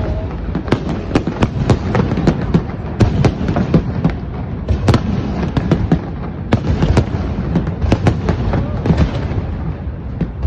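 Fireworks display going off, a rapid, irregular barrage of bangs and crackles, several a second, over a continuous low rumble.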